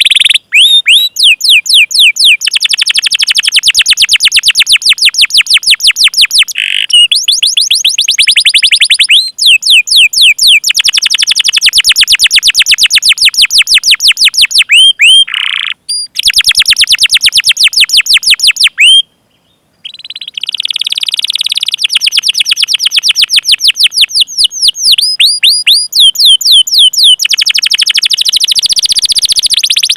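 Domestic canary singing long, fast runs of repeated high 'cuit cuit' chirps, rolled into trills. There are a few brief breaks and one short silence a little past the middle.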